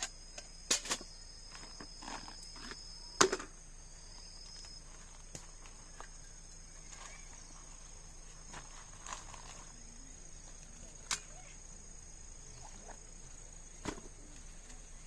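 Insects singing in steady high-pitched tones, with a few sharp knocks or clicks, the loudest about three seconds in.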